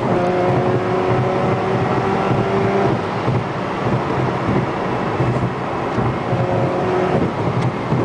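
Car engine heard from inside the cabin at highway speed, its pitch rising slowly under acceleration, then easing off about three seconds in, over steady road and wind noise.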